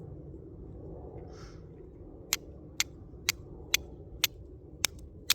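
Flint and steel being struck, a sharp scraping click about twice a second starting a little over two seconds in, throwing sparks at char cloth to catch an ember.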